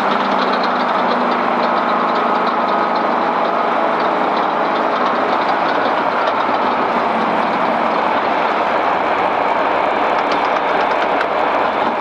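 Off-road race vehicle driving over rough ground: steady engine and road noise with light rattling ticks.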